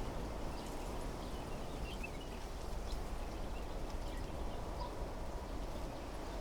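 Steady wind blowing through trees, with a few faint, short bird chirps about two seconds in.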